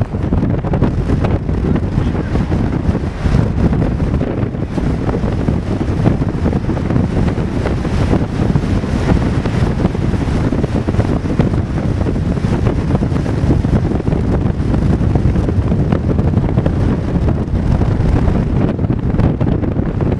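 Strong wind buffeting the microphone, a loud, steady, low rumbling roar.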